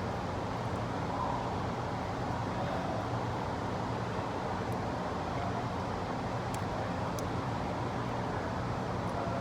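Steady background noise and hum, with a few faint, light clicks of small rifle parts being handled as the magazine release and its spring are worked into place, about four clicks in the second half.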